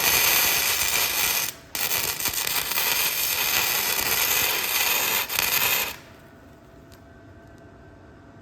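Electric welding arc crackling and sizzling as a bead is laid on steel, in two runs: the first lasts about a second and a half, then after a brief break the arc strikes again and runs for about four seconds before stopping abruptly.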